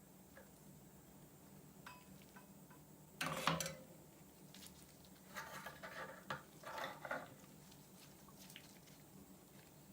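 Small hard parts and tools clattering and rattling as they are handled during a drill repair, in short bursts: a sharp clatter about three seconds in, then two rattling bursts between about five and seven seconds in, with a few light clicks between.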